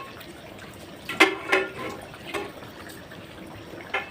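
Kitchen sounds while cooking in a pot: liquid pouring or sloshing, broken by a few sharp ringing clinks of metal utensils, about a second in, at two and a half seconds, and near the end.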